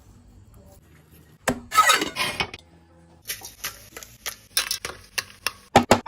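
Kitchen dishes and utensils clinking and knocking: a clattering burst about a second and a half in, then a run of separate sharp knocks and clicks that come quicker near the end.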